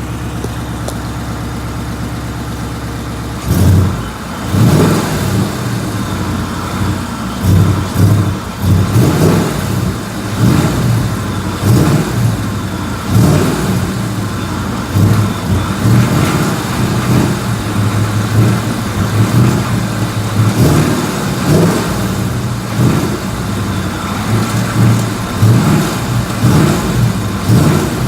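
Ford Mustang GT's 5.0 Coyote V8 with stock exhaust idling, then blipped over and over, about once a second, each rev rising and dropping back. It is being revved to check for a tick that has come back after a new short block.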